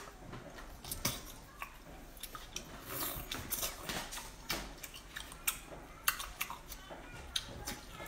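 Close-up mouth sounds of biting and chewing cooked octopus tentacles: irregular wet smacks and clicks.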